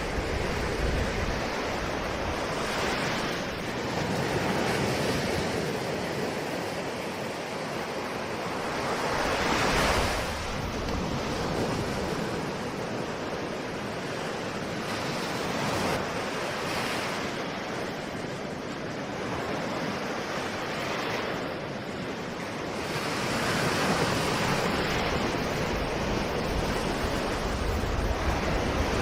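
Ocean waves breaking and washing on a shore, a steady surf hiss that swells every few seconds as each wave comes in, with some wind.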